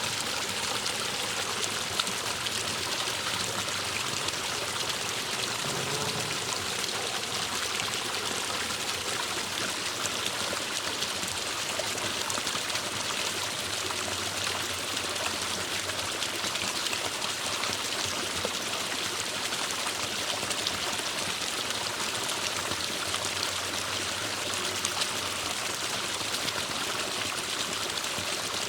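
Forest stream running steadily, a constant rush and trickle of water.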